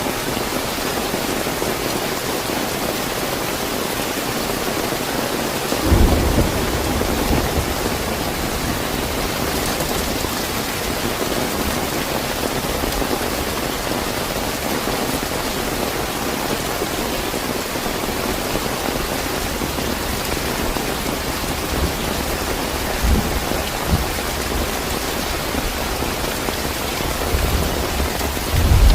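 Steady heavy rain falling, with a sudden clap of thunder about six seconds in that rolls on as a low rumble, and another thunder rumble building near the end.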